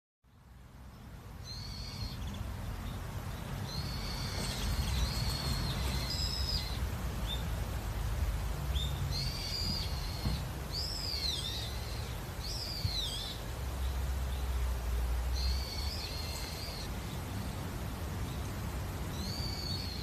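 Birds calling repeatedly, short high chirping phrases every second or two, a few of them sliding downward in pitch, over a steady low rumble. The sound fades in over the first couple of seconds.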